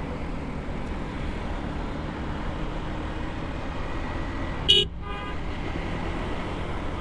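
Steady motorcycle riding noise in road traffic: engine and road rumble. A vehicle horn gives one short toot nearly five seconds in.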